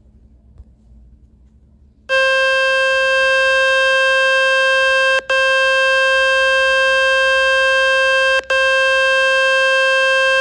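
A smartphone loudspeaker playing a loud, steady buzzing test tone from a speaker-cleaning website, meant to shake dust and water out of the speaker grille. The tone starts about two seconds in and has two very brief breaks.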